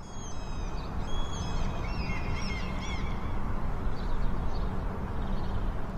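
Birds calling: a quick run of high calls with bending pitch in the first three seconds, fainter calls later, over a steady low rumble.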